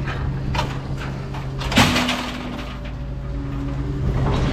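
Scrap metal being unloaded onto a pile: one loud clang about two seconds in, with a faint ringing after it, over a steady low mechanical hum.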